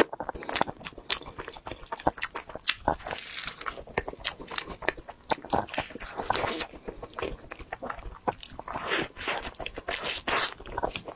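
Close-miked eating of a cream-filled pastry: bites and chewing, with many quick mouth clicks and smacks as fingers are put to the lips.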